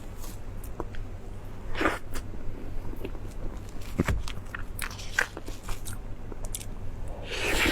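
Close-miked eating sounds: a person biting and chewing, with many small wet mouth clicks and a few louder noisy bites, over a steady low hum.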